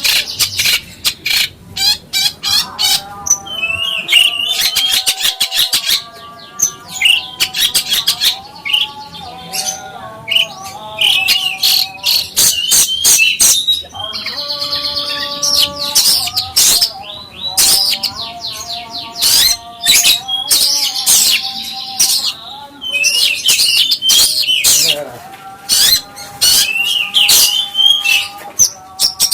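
Songbird singing a fast, varied song of sharp chirps, rapid trills and held whistled notes, with brief pauses between phrases.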